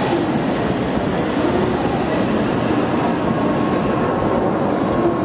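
Shinkansen bullet train moving past at low speed: a steady rumble of wheels and running gear on the rails, with a faint wavering tone above it.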